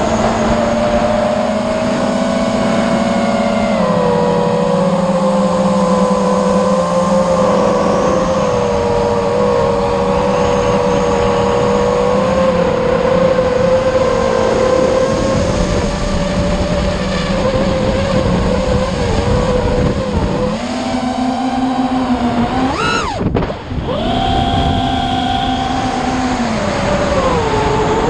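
A motor running steadily, its pitch drifting slowly up and down, over a rushing noise; near the end its pitch sweeps sharply up and drops away for a moment before settling again.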